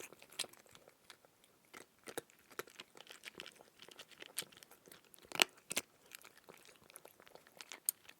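A cat eating, with irregular crunching and chewing; the loudest crunch comes about five and a half seconds in.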